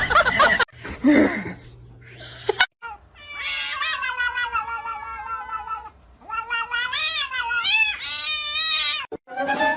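A cat yowling: two long drawn-out calls, the second one wavering up and down in pitch.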